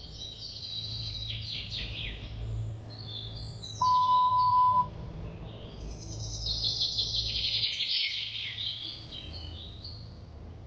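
Small birds chirping and twittering in rapid high calls, busiest in the first couple of seconds and again in the second half. About four seconds in, a steady pure beep lasts about a second and is the loudest sound, over a low rumble.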